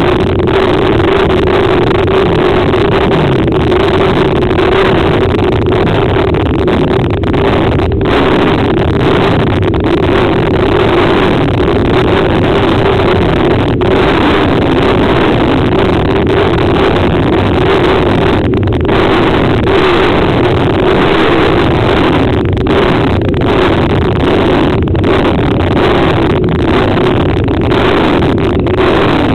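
Racing motorcycle engines running hard around a dirt short track, a loud, steady drone whose pitch wavers slightly without letting up.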